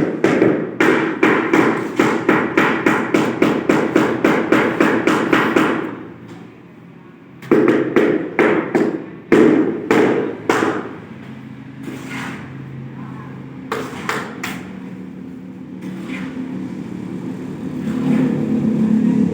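Rapid tapping on a large-format floor tile, typical of a mallet bedding it into the mortar, at about five strikes a second. The tapping pauses briefly about six seconds in, resumes, then thins out to scattered taps. Near the end a vehicle engine is heard building up.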